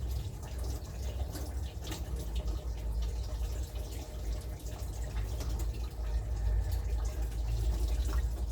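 Water dripping and splashing over a steady low rumble, with scattered light clicks and knocks.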